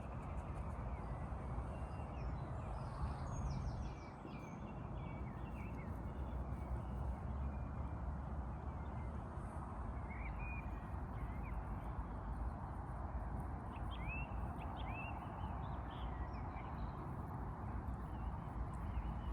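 Crows and other birds calling now and then over a steady low outdoor rumble, with a few short, separate calls scattered through.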